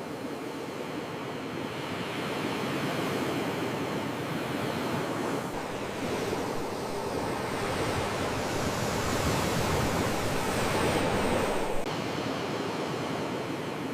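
Sea waves washing on the shore, a steady surging hiss that builds louder from about 8 s to around 11 s and then falls away suddenly.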